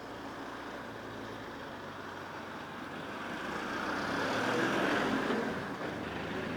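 Street traffic, with a motor vehicle passing close by: the noise swells to a peak about two-thirds of the way through and then falls away.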